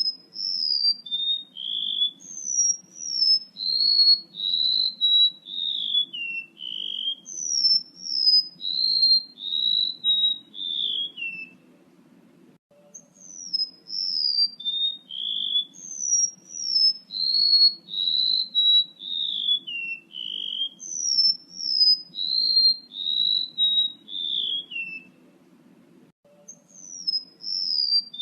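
Male rementuk laut bird call played as a trapping lure: strings of clear whistled notes, paired and stepping down in pitch from high to lower, repeated in long runs with two short pauses. A faint low hum lies underneath.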